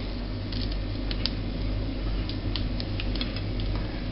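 Kitchen scissors snipping through soft, drained noodles: a series of short, irregular snips over a steady low hum.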